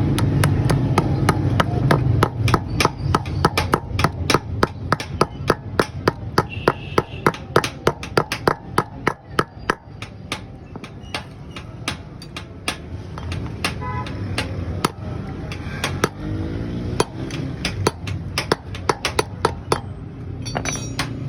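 A rapid series of sharp knocks, about three a second, thinning out to scattered knocks about halfway through, over a low steady hum at the start.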